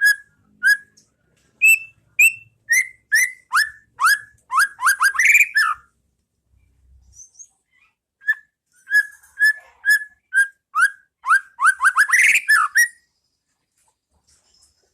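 White-rumped shama (murai batu) singing clear whistled notes, repeated about twice a second and quickening into fast downward-sweeping notes and a rapid burst. After a short pause it sings a second phrase of the same kind.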